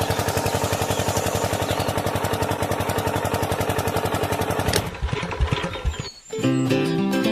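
Tractor engine running at a steady idle with a quick, even beat, cutting off about five seconds in with a click and a few low knocks. Music starts near the end.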